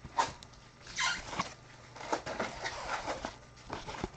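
Trading cards being handled and sorted by hand: a string of soft, irregular rustles and flicks of card stock sliding against card stock.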